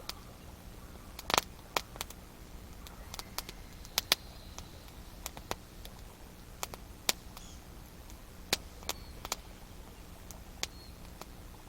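Wood campfire crackling, with sharp irregular pops and snaps every half second or so. The loudest pop comes about a second in.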